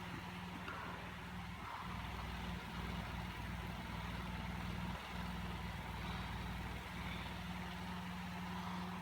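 Steady low mechanical hum with a faint hiss over it, dipping briefly a few times.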